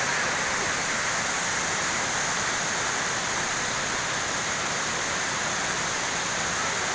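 Waterfall running: a steady, even rush of falling water with no break.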